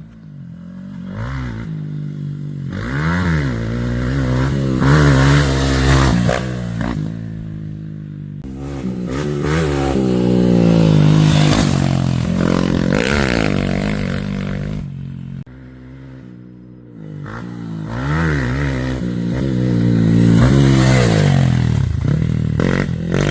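Motocross bike engine revved hard and backing off over and over as it is ridden off-road, its pitch climbing and dropping with each burst of throttle. There is a brief quieter lull past the middle.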